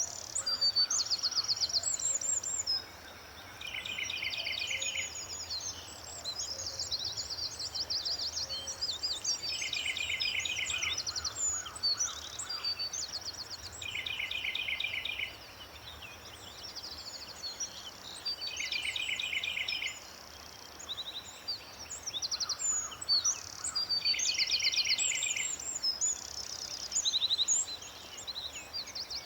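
Several birds singing together: one repeats a short, fast trill of evenly spaced notes every four to five seconds, while others keep up higher, varied chirps and whistled phrases over it.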